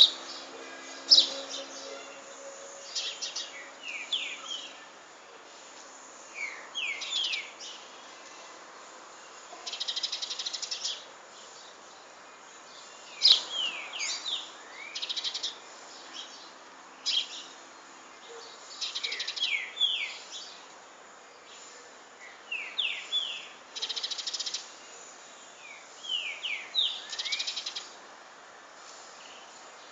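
Songbirds singing: short song phrases every two or three seconds, each a run of quick slurred notes mixed with brief buzzy trills.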